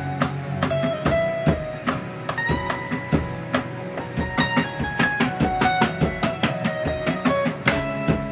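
Guitar-led backing music playing, with the unamplified taps and knocks of a homemade electronic drum kit's pads struck in time with it, the kit's electronic sound switched off.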